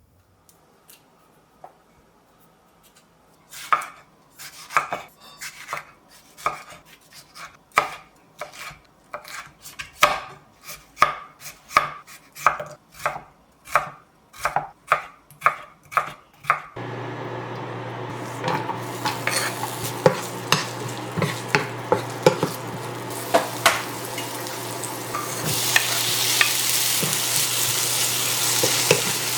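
Knife chopping on a cutting board, about two even strokes a second. About halfway through it stops, a steady hum comes on suddenly, and food starts sizzling in a pan with the clicks of stirring. The sizzling grows louder near the end.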